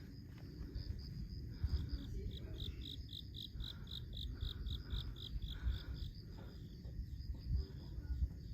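Insects calling outdoors: a steady high trill with a run of evenly spaced chirps, about four a second, through the middle, over a low rumble.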